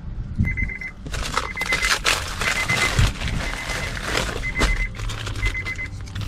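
Electronic beeping: a high tone chopped into rapid pulses, repeated in several short bursts, over a rushing noise with scattered clicks.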